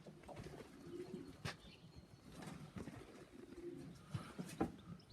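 Young pigeons cooing softly around the loft, a few low coos repeating, with a couple of sharp taps between them.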